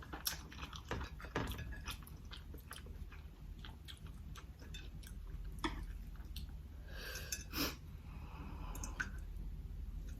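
Close-miked chewing and mouth sounds, with irregular small wet clicks and crunches and a louder crunchy stretch about seven seconds in.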